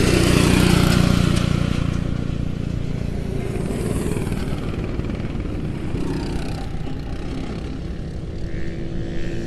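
Small engines of kids' lawnmower-style race cars running together. Loudest in the first second or two, then a steady drone.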